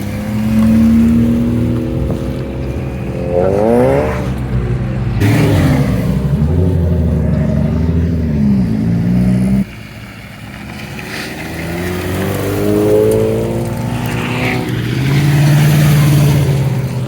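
Car engines running and revving as several cars drive past, the engine pitch climbing sharply under acceleration a few times. The sound drops off abruptly a little before halfway through.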